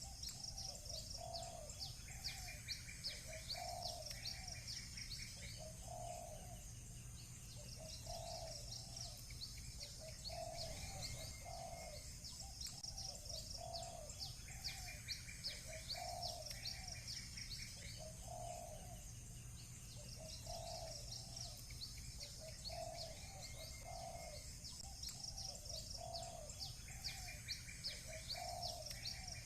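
Doves cooing over and over, about one coo a second, with small birds chirping in quick high runs and a short buzzy trill coming back every dozen seconds or so.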